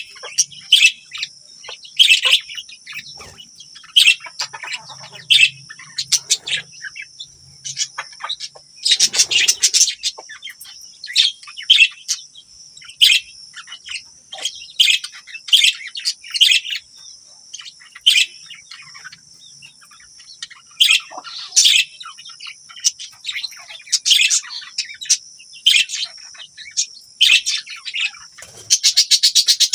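Budgerigars chirping: many short, sharp chirps throughout, with quick rattling trills about ten seconds in and again near the end, over a steady high-pitched tone.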